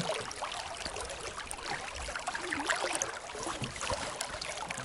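River water running, a steady babbling of the current.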